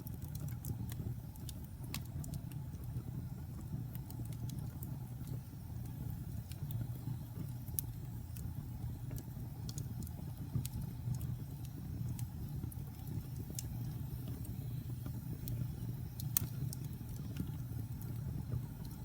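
Wood fire burning in a fireplace of damp fresh and old logs: a steady low rumble of flames with scattered sharp crackles and pops of the pine logs, one louder pop about sixteen seconds in.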